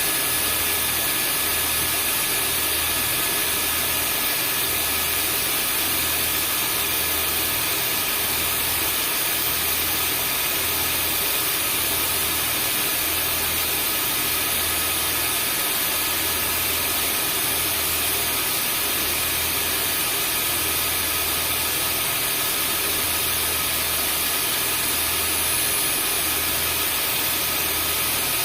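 Vacuum cleaner running steadily: an even rushing hiss with a thin whine over it and a low hum that throbs about once a second.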